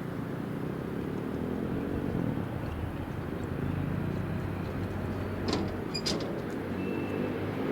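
Railway locomotive running with a low, steady engine rumble, with two sharp metallic clanks about five and a half and six seconds in.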